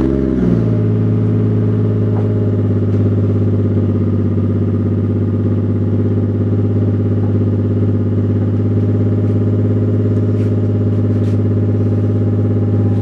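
Toyota Chaser JZX100's turbocharged 1JZ-GTE straight-six idling steadily from a cold start, its revs settling from the start-up flare in the first half-second.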